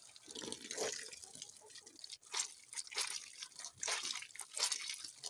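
Water dripping and splashing, in irregular drops about twice a second over a light wash of running water.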